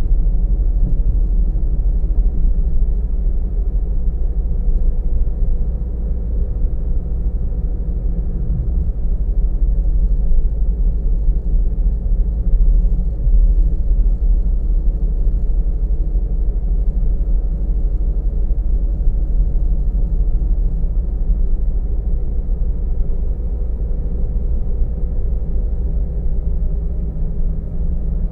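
Car driving at a steady pace, heard from inside the cabin: a constant low rumble of road and engine noise.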